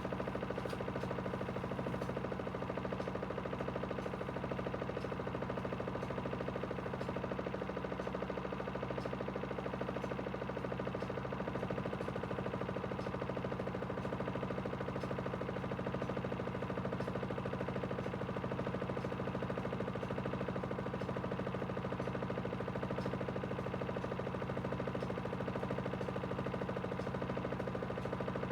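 Aidoo 1 kg mini washing machine's direct-drive motor running at a steady speed, a constant hum with faint regular ticking.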